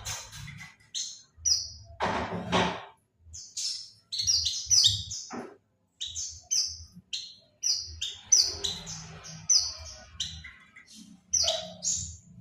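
Pleci (white-eye) song played as a lure recording: a rapid, irregular run of short, high, downward-slurred chirps, with a couple of harsher rasping notes about two seconds in.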